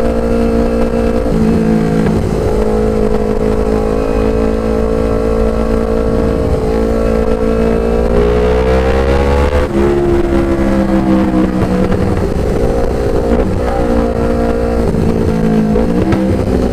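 Motorcycle engine with a racing exhaust, ridden at road speed. Its pitch climbs for about two seconds from roughly halfway through, then drops sharply, and it rises again near the end.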